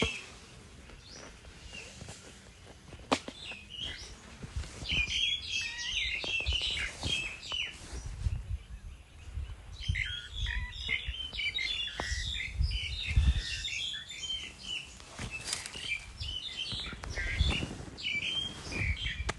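Small birds chirping in busy, overlapping bursts of short high calls, with low irregular thumps and rumble underneath.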